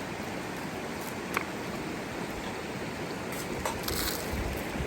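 Steady rushing of a river, with two light clicks, one about a second and a half in and another near the end.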